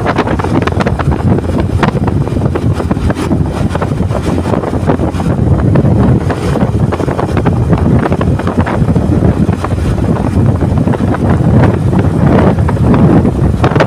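Heavy wind buffeting the microphone: a loud, continuous low rumble that rises and falls in gusts.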